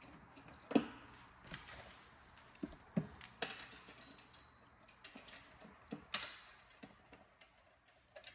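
Scattered clicks and light knocks of hard objects being handled, with sharper knocks about a second in, around three seconds in and about six seconds in.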